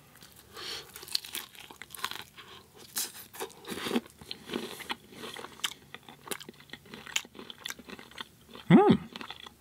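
Close-miked chewing of crisp air-fried samosa pastry, with many sharp crunches. A short hummed "mm" comes near the end.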